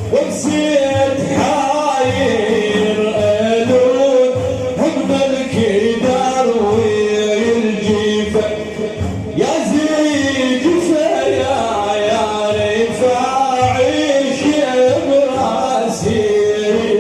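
Male voices singing a drawn-out, melismatic Islamic praise chant (manqaba for the Prophet) over a steady drum beat, with a short break and a fresh start about nine seconds in.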